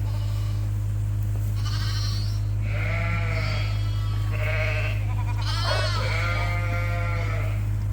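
Sheep bleating in a barn, several separate calls at different pitches, some high and thin, others lower and drawn out, overlapping near the end. A loud steady low hum runs underneath.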